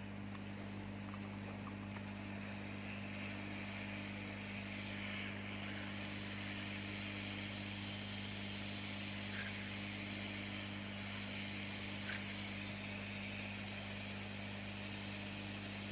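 Hot-air rework station blowing a steady hiss of air, over a steady mains hum, with a few faint clicks near the start.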